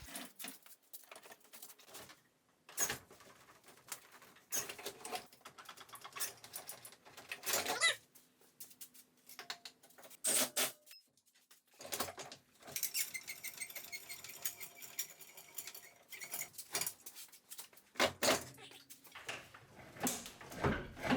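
Scattered clinks, knocks and scrapes of metal being handled, with a short spell of fine rattling ticks about halfway through, as the engine is worked into the engine bay.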